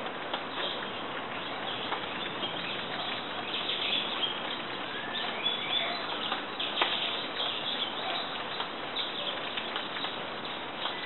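Birds chirping: short, scattered calls over a steady background hiss.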